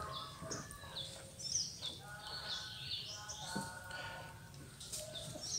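Small birds chirping over and over in the background, with faint water sloshing and dripping as a hand-held dip net is moved through and lifted out of a fish pond.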